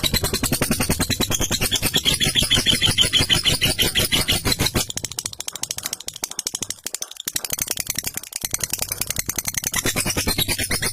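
Lovebird's long 'ngekek' song: a fast, continuous rattling chatter of rapid high-pitched notes. It thins out about halfway through, then comes back strongly.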